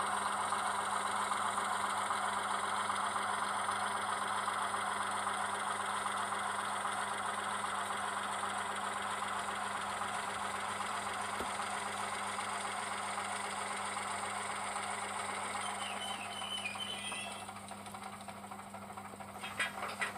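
Sound-decoder diesel engine of an H0 Köf II shunter model running steadily through a small loudspeaker, dropping in level a few seconds before the end, where a few sharp clicks follow.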